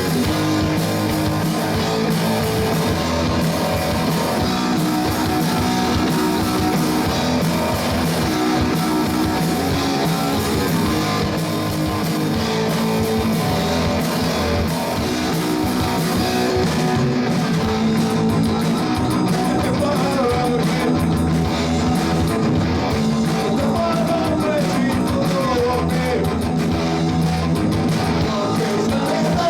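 Live rock band playing with electric guitars, drums and bass.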